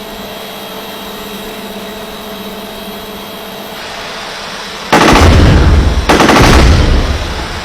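Quadcopter drone hovering with a steady, multi-tone rotor hum; about five seconds in, its mounted machine gun fires two loud bursts in quick succession.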